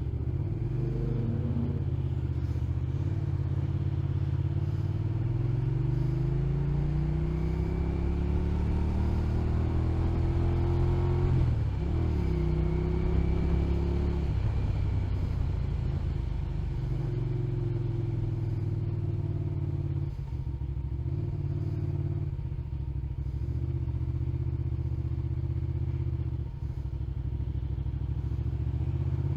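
Motorcycle engine under way, its pitch rising through several gears with a drop at each shift in the first half, then holding steady at a cruise.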